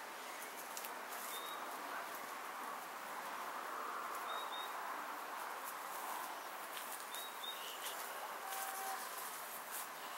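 Garden ambience: a small bird giving short, high chirps every few seconds over a steady outdoor hiss, with faint scattered rustles.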